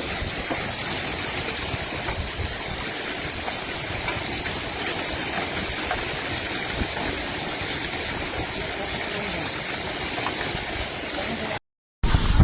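Steady rushing of heavy rain and floodwater. Near the end it cuts off for a moment, then gusty wind buffets the microphone more loudly.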